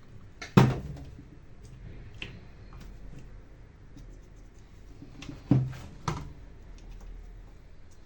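Sharp knocks and small clicks of tools and grinder parts being handled and set down on a workbench: one knock about half a second in, then two more close together near the end.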